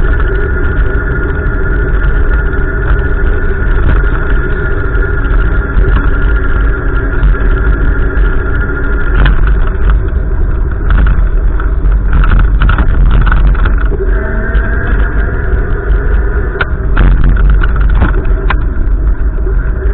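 Gusty wind rumbling loudly on the microphone, with a few steady faint tones and scattered short clicks between about 9 and 19 seconds in.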